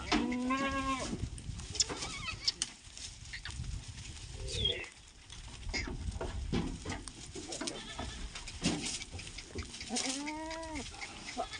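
Goats bleating: one drawn-out bleat right at the start and another near the end, with scattered knocks and clattering in between.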